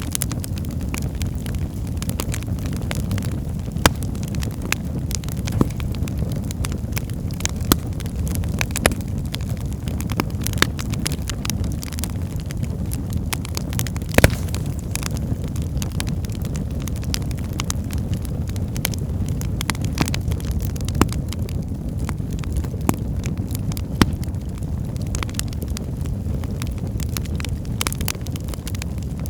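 Wood fire burning in a fireplace: a steady low rumble of flames with scattered sharp crackles and pops, the loudest snap about halfway through.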